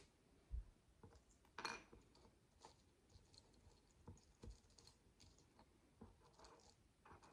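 Micro building bricks, tiny plastic pieces, being handled and pressed together: faint, scattered clicks and taps, with a sharper click about a second and a half in.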